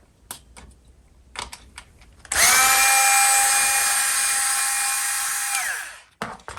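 Power drill-driver running steadily for about three and a half seconds, backing out a fastener, then winding down as the trigger is released. A few light clicks come before it.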